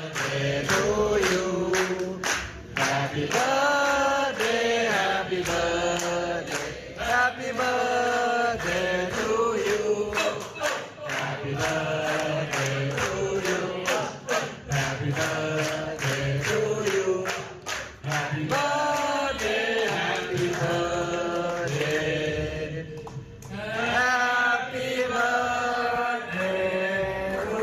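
A group of voices singing a chant-like melody together over a regular percussion beat.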